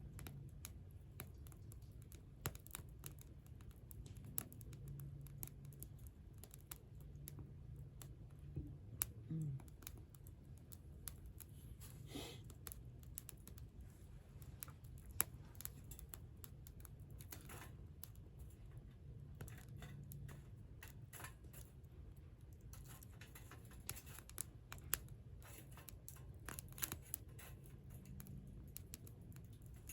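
Campfire crackling: irregular sharp snaps and pops of burning wood, one louder pop about fifteen seconds in.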